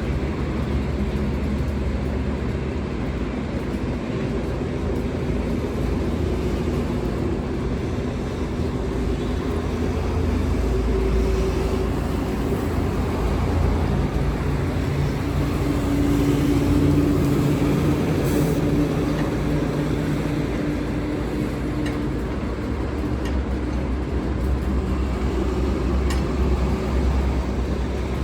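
Steady low engine rumble with a hum that gets louder from about ten seconds in and eases off again after about twenty.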